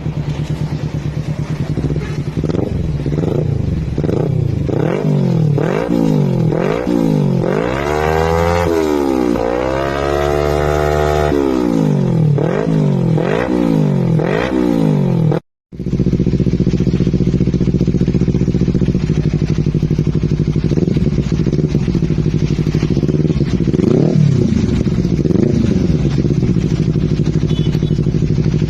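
Motorcycle with an aftermarket racing exhaust being revved in quick repeated blips, with one longer held rev partway through. After a sudden break, the engine idles with a few short revs.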